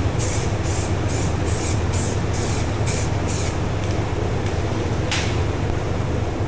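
A machine running steadily with a low hum, overlaid by rhythmic hissing strokes about twice a second for the first three and a half seconds and once more about five seconds in.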